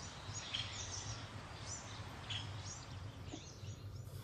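Birds chirping in the background: many short, quick chirps over a steady low hum.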